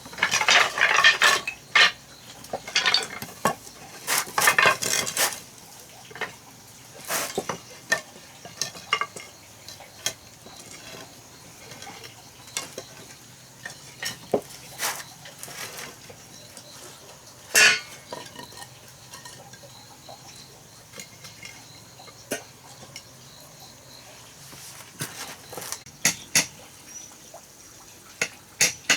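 Irregular clinks, knocks and clatter of hard objects being handled. They come thick in the first five seconds, then as scattered single knocks, one louder about halfway through.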